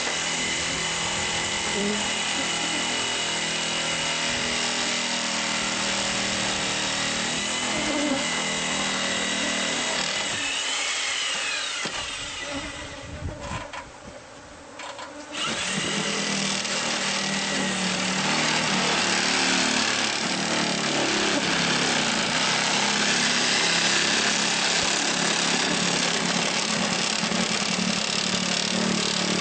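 A power tool running steadily as it cuts into the wall to open up the bee hive; it winds down about 12 seconds in, stops for a few seconds, then starts up again and keeps running.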